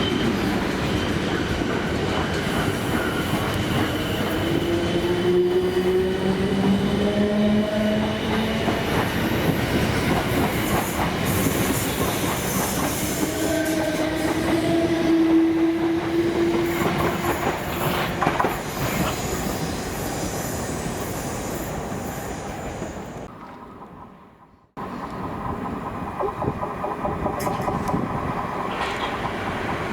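Passenger trains running on the line, wheels clattering over rail joints and squealing, with a rising whine as a train picks up speed. About three quarters of the way through the sound fades right down, then cuts straight back in to more train noise.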